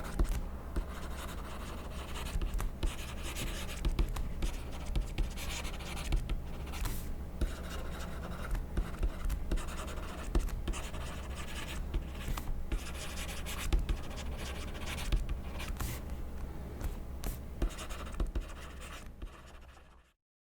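Pen writing on paper: irregular scratching strokes with small sharp taps, fading out at the very end and cutting off about twenty seconds in.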